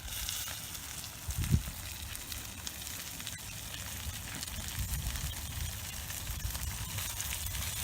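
Smelt frying in hot oil in a cast-iron pan over a log fire: steady sizzling with small crackles. A dull thump about a second and a half in.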